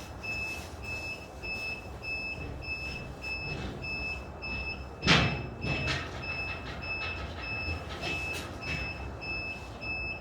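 Construction-site noise: an electronic warning beeper sounding in quick, evenly spaced beeps over a steady rumble of machinery. A single loud bang, like a board or tool being dropped, comes about five seconds in.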